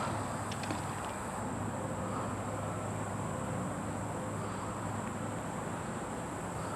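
Steady outdoor background noise with a low hum and a constant high-pitched hiss, with a few faint clicks about half a second in.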